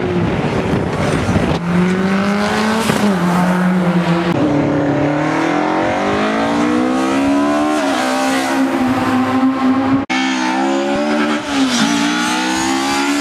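Rally car engine at full throttle, its note climbing and then dropping back at each gear change as it accelerates through the gears. Wind rush on the microphone before the engine comes in; the sound cuts off abruptly about ten seconds in and another run of rising revs and gear changes follows.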